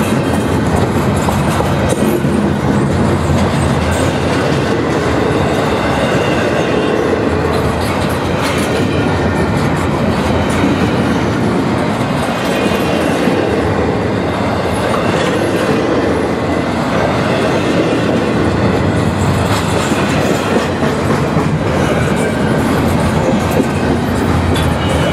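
Double-stack intermodal freight train's well cars rolling past: a steady rumble of steel wheels on the rails, with the clickety-clack of wheels over rail joints.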